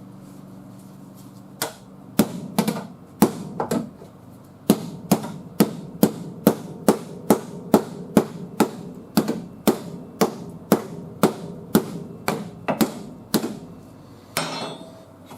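Hammer blows on car body sheet metal: a few scattered strikes, then a steady run of about two blows a second, each ringing briefly. A short rattling scrape follows near the end.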